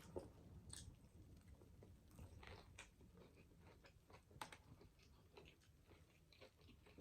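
Faint chewing of fast food close to the microphone: soft, irregular wet clicks and small crunches.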